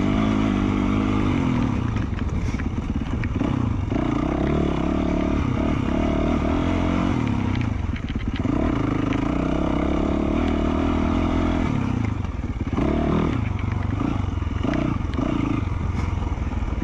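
2020 Yamaha YZ450F single-cylinder four-stroke dirt bike engine with an FMF Q4 slip-on exhaust, running under load on a trail ride. The pitch climbs and falls as the throttle is opened and closed, with short drops where the rider backs off, about eight seconds in and again near twelve seconds. Light clattering from the bike runs underneath.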